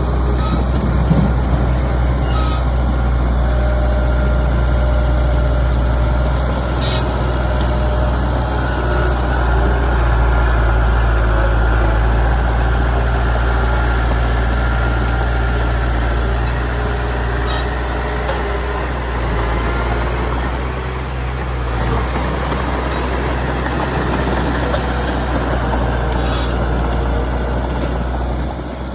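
Komatsu D31PX bulldozer's diesel engine running steadily, with a few short sharp clanks.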